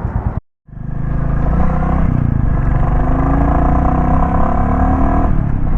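Royal Enfield Classic 350's single-cylinder engine running under way, starting about half a second in, its pitch climbing steadily as the bike accelerates, then easing off briefly near the end.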